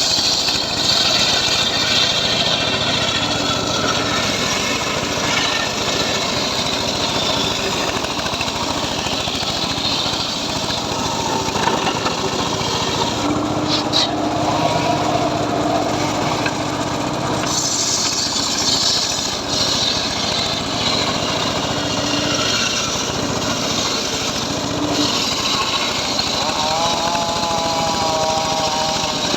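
Homemade circular saw rig running steadily while sawing teak logs, a continuous loud machine noise.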